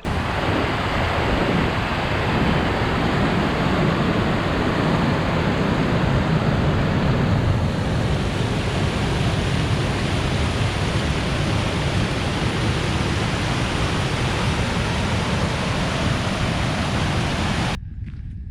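Steady wind rushing across the microphone on open lake water. It is a loud, even rush with no rhythm that cuts off suddenly near the end.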